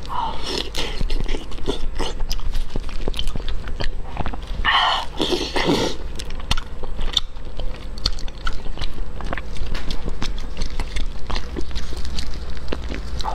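Close-miked eating of soft, fatty steamed fish: chewing with many small wet mouth clicks, and a louder sucking sound about five seconds in.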